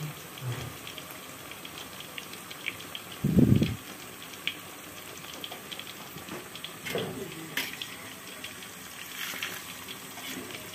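Tempe fu yung hai (an egg-and-tempe omelette) frying in hot oil in a wok: a steady sizzling hiss with scattered crackling pops. A dull low thump about three seconds in.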